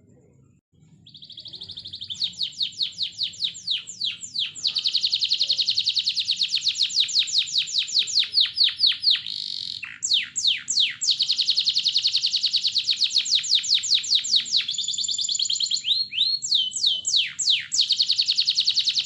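Canary singing a long, loud song of very fast trills and rolls, broken here and there by a few steeply falling swooped notes. The song starts about a second in, after a moment of silence.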